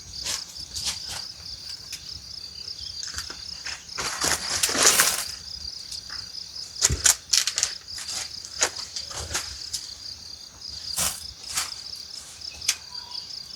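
Crickets trilling steadily, with scattered sharp knocks and rustles over them and a longer, louder rustle about four to five seconds in.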